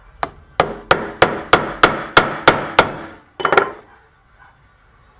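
Hammer blows driving a new bearing into a motorcycle's rear sprocket carrier through a driver tool: a light tap, then about nine sharp strikes at about three a second, and one more after a short pause.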